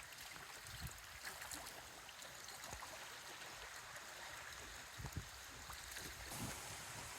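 Strong wind blowing steadily, with gusts buffeting the microphone in low thumps a few times.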